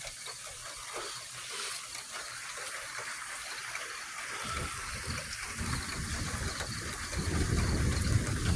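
Steady hiss of rain, with a low rumble that builds from about halfway through and grows louder near the end.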